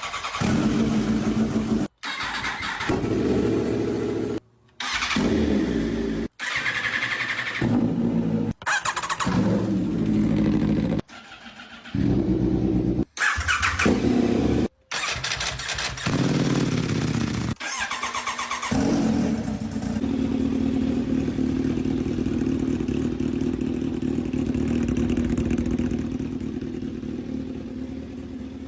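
Motorcycle engines starting and revving in a run of short clips cut one after another, about eight in all, each ending abruptly. From about twenty seconds in, one engine runs steadily at idle.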